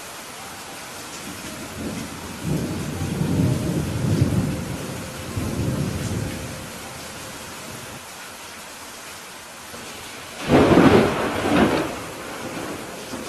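Steady rain with thunder: a low rolling rumble from about two seconds to six seconds in, then a louder, sharper thunderclap near the end that dies away over a second or two.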